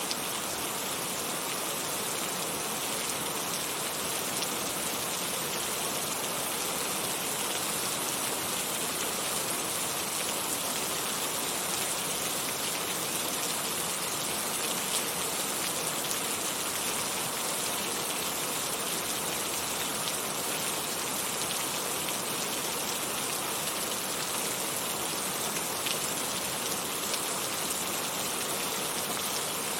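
Heavy rain falling steadily, an even hiss with scattered drops tapping.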